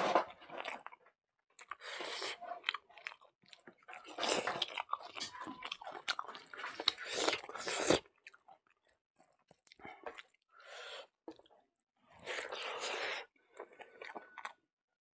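Close-miked chewing and mouth sounds of a person eating a mouthful of rice, dal and potato fry by hand, some crunchy, in irregular clusters that thin into shorter bursts with pauses after about eight seconds.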